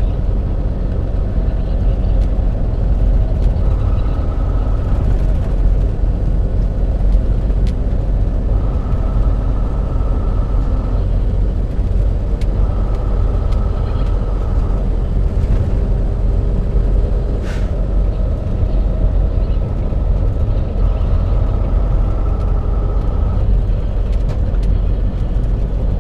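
Semi-truck cab interior while driving: steady diesel engine drone and road rumble, with a faint high whine that comes and goes for a couple of seconds at a time, four times.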